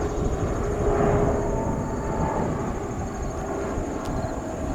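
Jet airliner engines rumbling steadily in the distance, the sound of a heavy jet on its takeoff run, with a thin steady high whine over it.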